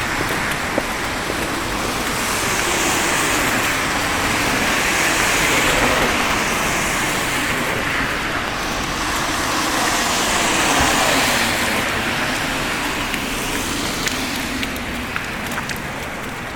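Cars passing on a snowy city street, their tyres hissing through the slush. The sound swells as vehicles go by, about five and eleven seconds in.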